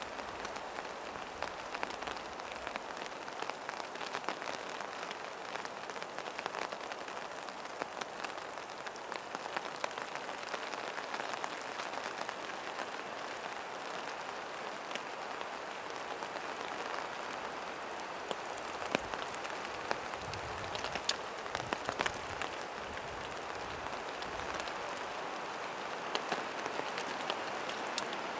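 Steady rain falling, with many sharp ticks of single drops striking an umbrella.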